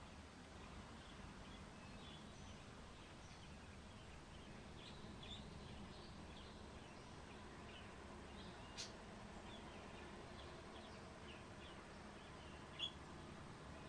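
Faint small birds chirping, many short scattered chirps over a low steady outdoor background hum, with a couple of sharp clicks in the second half.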